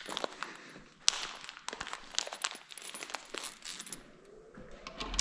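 Loose metal valve cover bolts clinking and rattling as they are handled, with a run of small sharp clicks and one louder clink about a second in.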